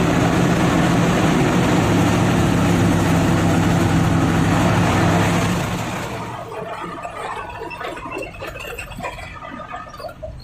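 Nissan TZA 520 dump truck's diesel engine running steadily, then dying away about six seconds in, leaving quieter scattered clicks and short pitched sounds.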